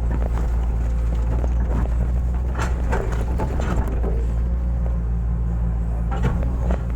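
Hitachi excavator's diesel engine running steadily under load, with several short knocks and scrapes from the machine working.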